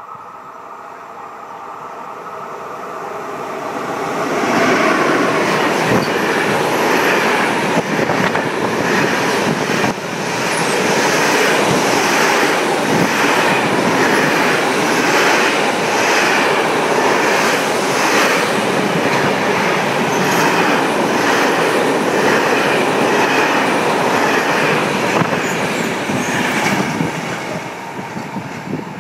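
Long freight train of closed wagons, hauled by an E.655 electric locomotive, passing at speed, about 130 km/h. It builds over the first few seconds as the last tones of the horn fade, then a loud, steady rush of wheels on rail with a regular clatter of the wagons going by, dying away near the end.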